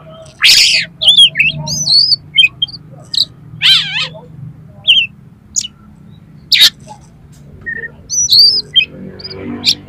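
Oriental magpie-robin (kacer) singing a varied song of short high whistles and chirps broken by loud harsh rasping notes, the strongest about half a second, nearly four, and six and a half seconds in.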